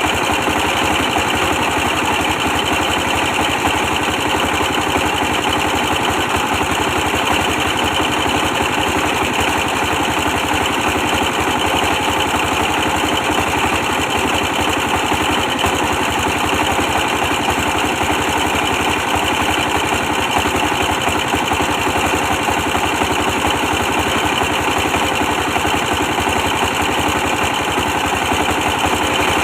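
A 24 hp stationary diesel engine running steadily, with a rapid, even beat from its firing, while it powers a brick press machine.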